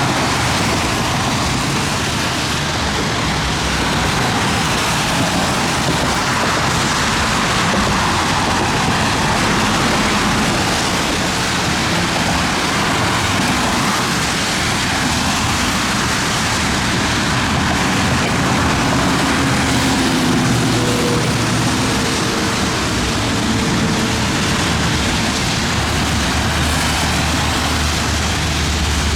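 Steady, loud rush of heavy thunderstorm rain and gusty wind.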